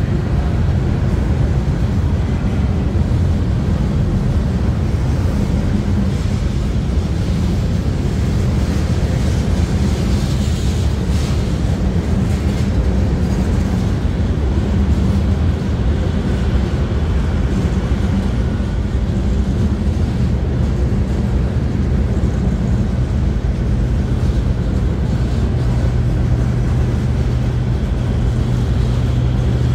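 Freight cars of a slow-moving manifest train rolling past close by: a steady low rumble of wheels on rail with a droning hum underneath, a little hiss rising about a third of the way in.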